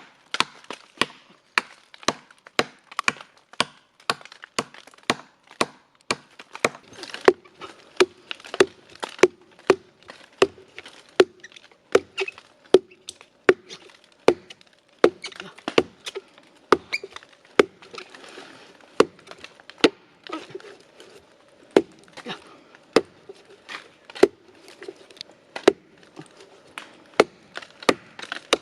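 Repeated chopping into wood with a blade: sharp strikes in a steady rhythm, about three every two seconds.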